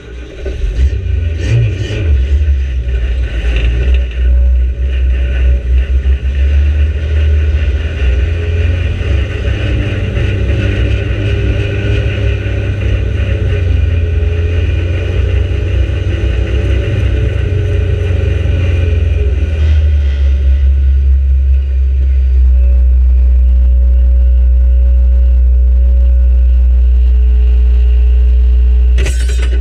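Micro banger's engine running hard, heard from inside the stripped-out cabin, its note rising and falling with throttle; after about twenty seconds it settles into a steady, loud low drone. A short clatter near the end.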